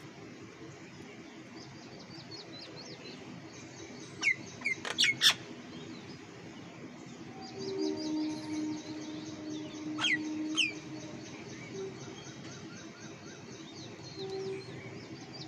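Small birds chirping and twittering rapidly and high, with a few loud, sharp downward-swept calls about four seconds in and again around ten seconds. A low steady hum runs underneath for a few seconds in the middle.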